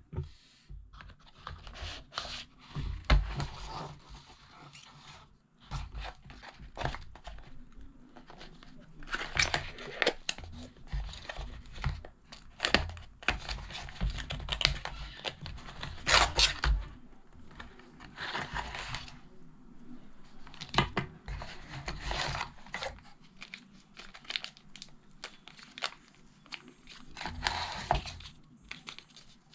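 Irregular rustling and crinkling, with scattered short knocks and clicks.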